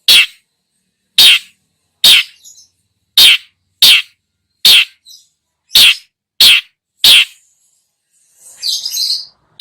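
Long-tailed shrike (cendet) giving a string of short, loud, scratchy calls, about one a second, with a softer twittering phrase near the end.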